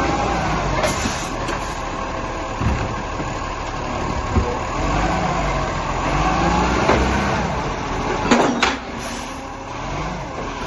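Garbage truck engine running, its pitch rising and falling, with a brief loud burst about eight seconds in.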